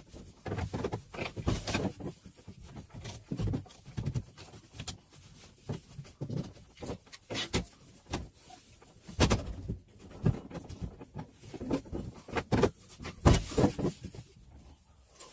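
Irregular handling noises: uneven knocks and scraping rubs, with no steady rhythm.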